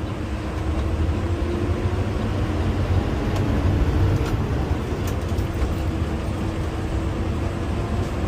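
Garbage truck running on the road, heard from inside the cab: a steady low engine and road rumble with a faint whine that slowly rises in pitch twice.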